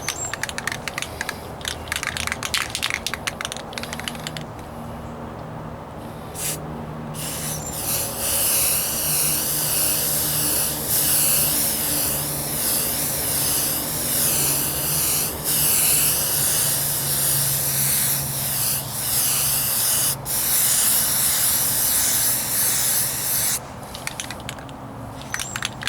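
Aerosol spray can of automotive primer hissing in long spraying passes, with a few brief breaks between passes.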